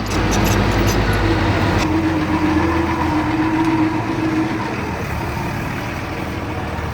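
Diesel engine of heavy earthmoving machinery running steadily, with a held whine through the middle that fades away about four and a half seconds in.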